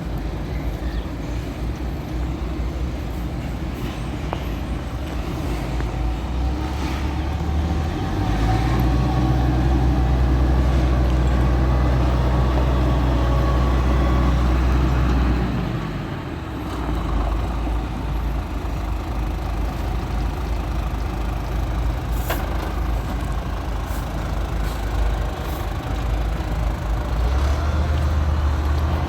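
Isuzu Giga concrete mixer truck's diesel engine running, louder and faster from about eight seconds in for several seconds, then dropping back before picking up again near the end.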